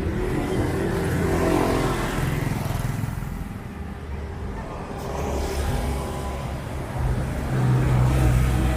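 Street traffic: motor vehicle engines running as vehicles pass close by, the sound swelling about a second in and again near the end, with a low engine hum throughout.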